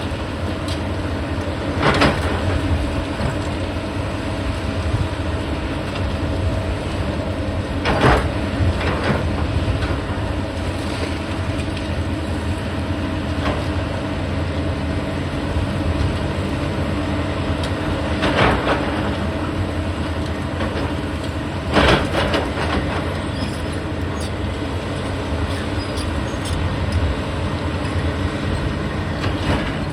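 Heavy demolition machinery running steadily, with about four loud crashes of breaking or falling debris.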